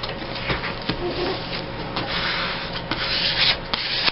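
Paper being rubbed and handled on a tabletop: irregular scratchy rubbing strokes, busier in the second half.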